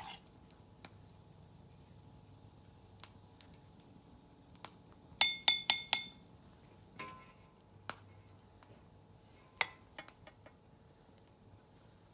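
Utensils clinking against cookware: a quick run of four ringing clinks about five seconds in, and single clinks and light taps scattered through the rest.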